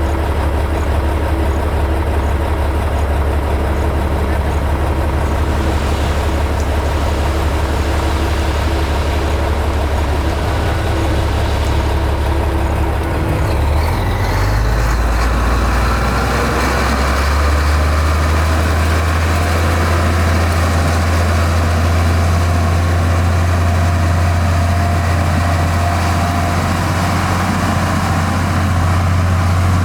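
Heavy diesel engine of construction machinery running steadily. About halfway through, its note shifts slightly higher and holds there.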